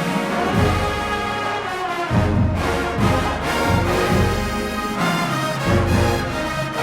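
Marching band playing: a full brass section carrying a tune over a strong bass line and drumline beat.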